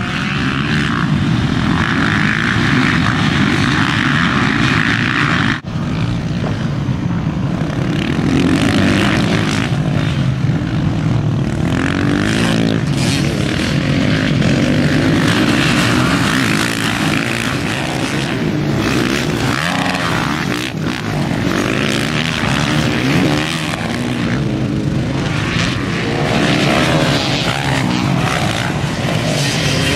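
Dirt bike engines running hard during a race, a steady buzzing drone that rises and falls with the throttle. It breaks off for an instant about five and a half seconds in.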